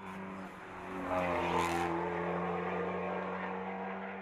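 A racing car's engine at high revs on a hillclimb, passing close. It grows much louder about a second in and then slowly fades.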